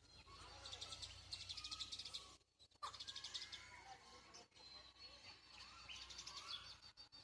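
Small birds chirping and trilling: bursts of rapid high trills with lower warbling chirps between them, broken by a brief gap about two and a half seconds in.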